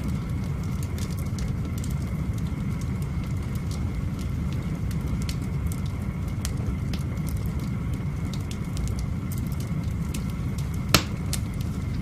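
Wood fire burning in a cobblestone fireplace: scattered crackles and snaps over a steady low rumble, with one loud pop about eleven seconds in.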